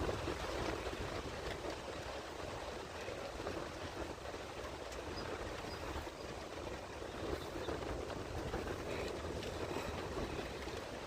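Distant diesel engines of a stuck semi-truck and the tractor pulling it, running steadily under load as a continuous rumble.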